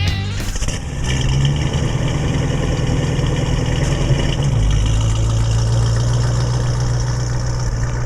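Small-block 350 cubic-inch Chevrolet V8 in a 1935 Chevy street rod running steadily, its low note dropping slightly about halfway through.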